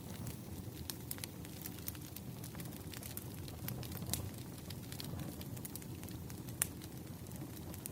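Wood fire burning: a steady low rumble of flames with irregular sharp crackles and pops of burning logs, one louder pop about two-thirds of the way through.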